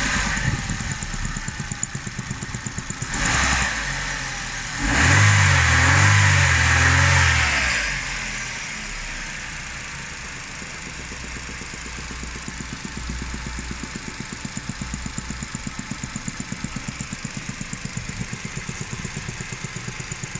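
Car engine idling with an even pulsing beat and a steady high-pitched hiss. It is blipped briefly about three seconds in and revved for a few seconds about five seconds in, then drops back to idle. The owner takes the hiss for either noisy fuel injectors or something else, such as a leak at the intake.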